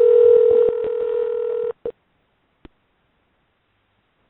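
Steady telephone-line tone with a series of clicks, cutting off suddenly under two seconds in. A click or two follow, then the line goes dead silent.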